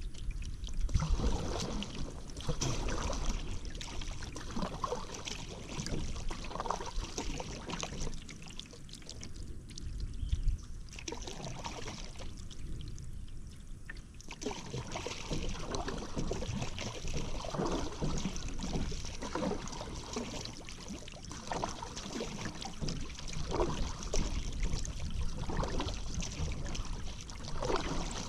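Paddle strokes in river water: the blade dips and pulls, water splashes and dribbles off it. The strokes ease off twice for a moment in the middle.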